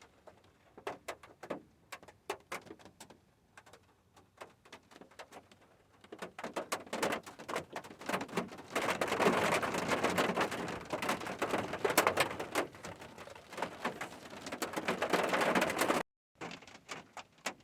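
Rain falling on a hard surface: scattered separate drops at first, thickening about six seconds in into dense, heavier rain, which cuts out briefly near the end before faint drops return.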